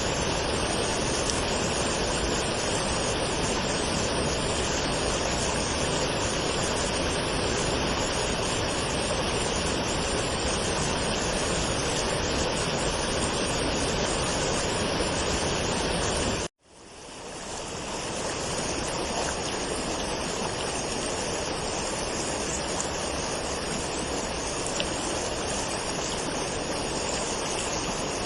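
Waterfall water rushing as a steady roar. About two-thirds of the way through it cuts out suddenly, then fades back in over a second or two, a little quieter: a splice in the recording.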